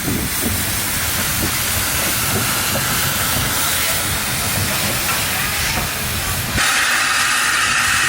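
Steam locomotive hissing steam over a low rumble. About six and a half seconds in, the rumble drops away and a louder, higher hiss takes over.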